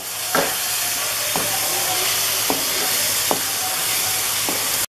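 Carrot halwa sizzling steadily in ghee in a hot pan as a wooden spoon stirs it, knocking and scraping against the pan about five times, roughly once a second. The milk has fully cooked off, so the mixture is now frying in ghee, the stage where halwa begins to leave the sides of the pan. The sizzle cuts off suddenly just before the end.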